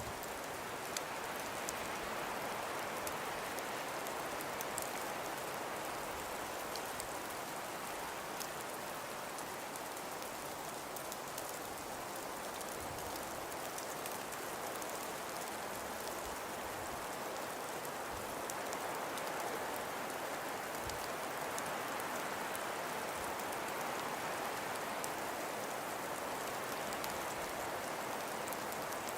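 Wind-driven snowfall: a steady, even hiss with many fine ticks of snow striking, and a few faint low thumps.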